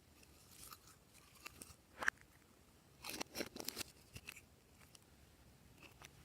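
Glossy slime being mixed and squished by hand, giving scattered sharp clicks and crackling pops, with a dense run of them about three seconds in.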